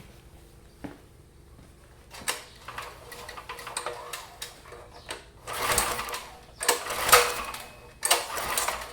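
Predator 212cc single-cylinder engine being cranked over by its recoil pull-starter, three hard pulls in the second half, each a short rattling whirr, without the engine firing.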